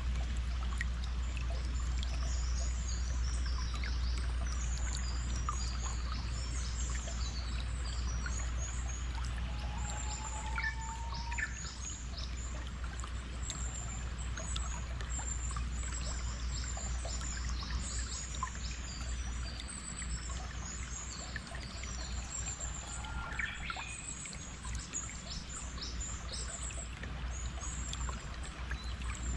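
Running water and many songbirds chirping: a steady trickling stream under dense high chirps, with a few lower whistled calls about a third of the way in and again late on.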